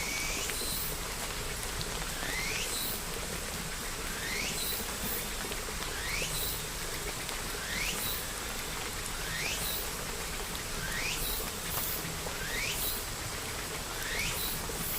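Steady rain ambience, with a short rising chirp repeated about every second and a half.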